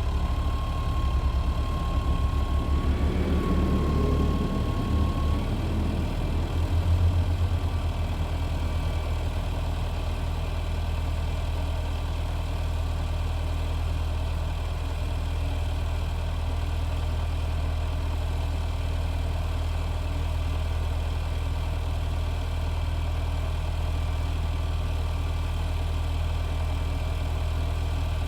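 Heavy truck engine idling steadily. It is a little uneven in the first few seconds, with a thin high whine over it, and lifts briefly about seven seconds in before settling into an even idle.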